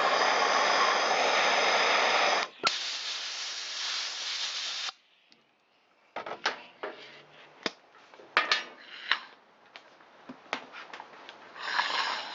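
Blowtorch flame hissing loudly on the clogged spark arrestor. About two and a half seconds in it drops with a sharp click to a quieter hiss, which cuts off near five seconds. Scattered clicks and knocks of handling the metal part follow, with a short hiss near the end.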